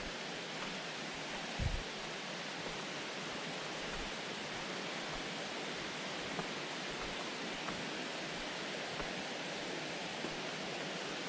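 Steady, even rushing noise outdoors at night, with one short low thump a little under two seconds in.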